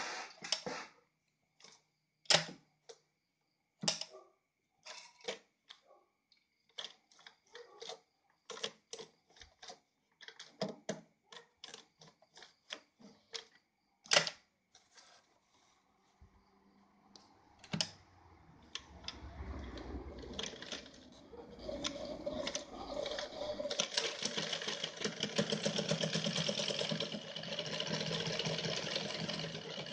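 Irregular clicks and knocks as parts of a Yamato 673 zigzag sewing machine are handled and set, then a little over halfway through the machine starts. It runs steadily with rapid needle ticking, getting louder as it speeds up over several seconds and then holding.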